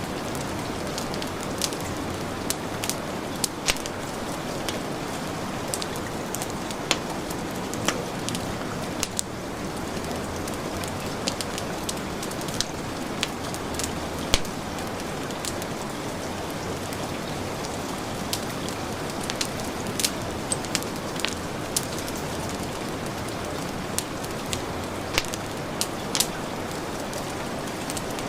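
Steady heavy rain hiss mixed with a crackling wood fire: sharp irregular pops and snaps from the burning logs over the even wash of rain.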